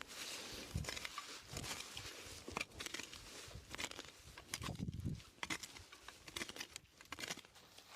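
Rustling and crackling of dry forest litter and twigs being handled or stepped on, with a few dull thumps, about a second in and again around five seconds.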